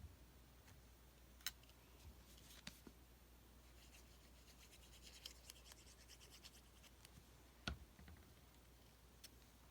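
Near silence with faint scratching and rustling of paper being handled, and a few light taps scattered through it, the loudest a little before the end.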